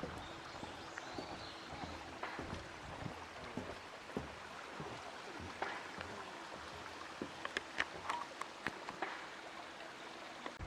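Small stream babbling steadily, with a scatter of sharp clicks and ticks about two-thirds of the way through.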